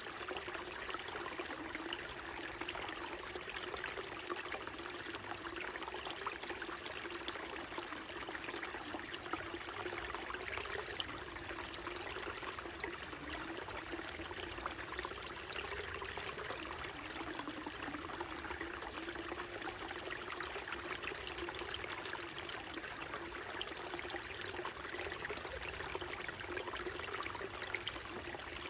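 Small mountain stream flowing steadily over rocks, a continuous babble and trickle with a low gurgling note that wavers.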